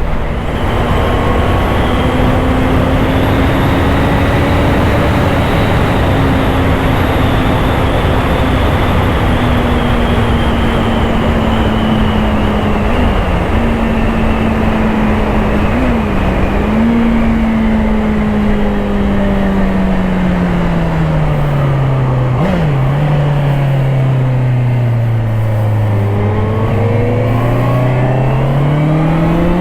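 Honda CBR650R's inline-four engine running under way, with heavy wind rush over it. The engine note slowly drops as the bike slows, with a few brief flicks in pitch along the way, bottoms out, then rises again near the end as it accelerates.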